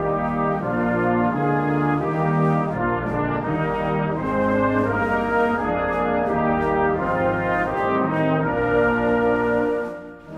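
Brass ensemble music: several brass instruments playing held notes together in slow chord changes, with a short break between phrases near the end.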